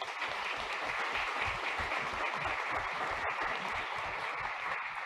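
Audience applauding: steady clapping from many hands, fading out just after the end.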